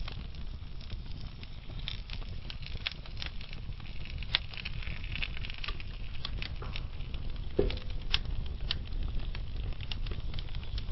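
Wood fire burning in a fireplace: logs crackling with scattered sharp pops over a low steady rumble of the flames, a couple of louder pops about four and a half and eight seconds in.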